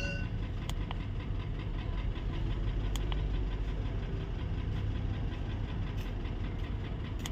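Mercedes-Benz GL450's V8 engine idling while misfiring; the scanner reports a random multiple-cylinder misfire with cylinders 2, 4 and 7 detected. A few faint clicks sound over the steady running.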